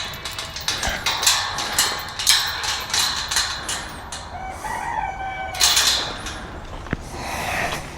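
Chickens clucking and calling in short bursts, with a rooster crowing once, about halfway through.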